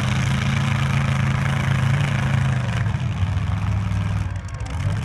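Demolition derby truck engines running loud and steady, dropping a little in pitch about three seconds in.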